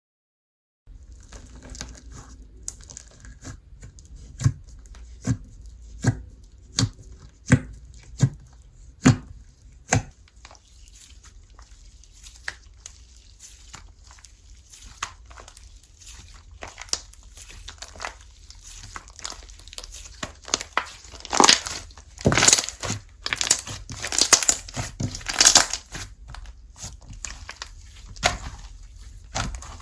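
Slime being pressed and squished by hand: a run of sharp, evenly spaced pops a little faster than one a second, then sparser small clicks. About two-thirds of the way in, it turns to louder, denser crackling and crunching.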